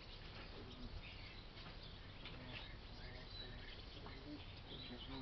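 Faint outdoor yard ambience with scattered short, high bird chirps.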